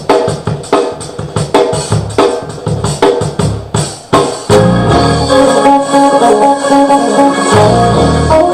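Band music: a steady drum beat, then about four and a half seconds in, the full band comes in with held keyboard chords and a strong bass.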